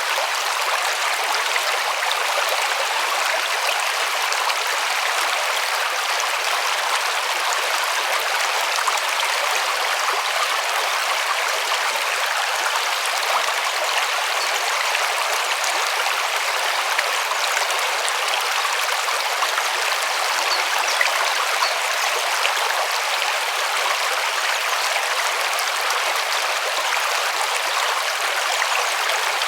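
A river flowing over stones: a steady, even rushing with a light splashing texture and no deep rumble.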